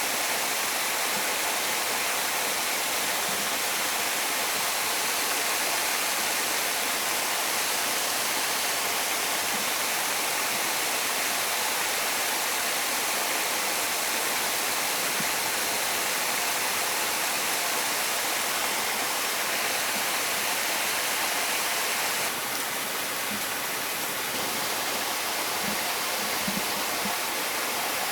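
Steady rush of running water from a stream, a continuous hiss with no pauses. It drops slightly in level about 22 seconds in, and a few faint low knocks come near the end.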